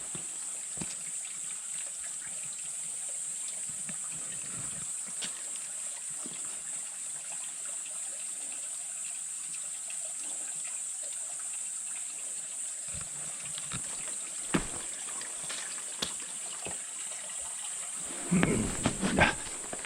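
Outdoor ambience: a steady high-pitched hiss with scattered faint clicks, a single knock in the middle, and a short cluster of louder thuds or steps near the end.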